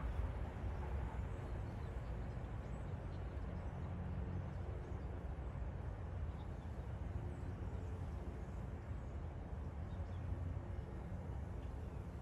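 Steady low rumble of a freight train heard from a distance.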